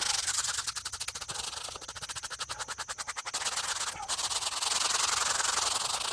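Brush scrubbing the face of a weathered gravestone to work dirt and mold out of the carved lettering. First quick, short strokes, then, after a brief pause about four seconds in, longer and steadier scrubbing.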